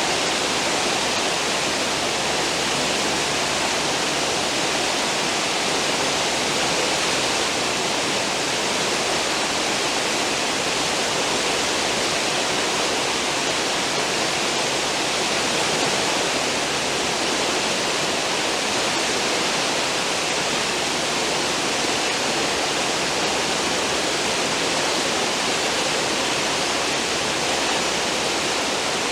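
Cruise ship's stern wake churning: a steady, even rush of foaming water.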